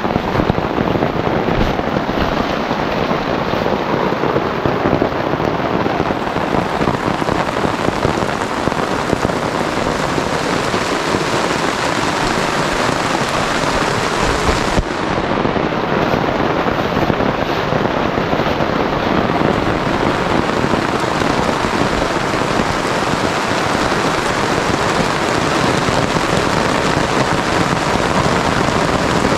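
Heavy rain pouring down steadily in a rainstorm.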